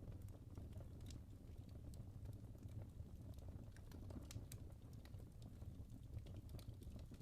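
Wood fire burning in a fireplace, with a soft low rumble and scattered sharp crackles and pops from the logs.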